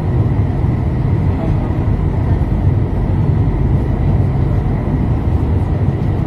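Metro train running through a tunnel, heard from inside the car at the front window: a loud, steady rumble of wheels on rail and running gear.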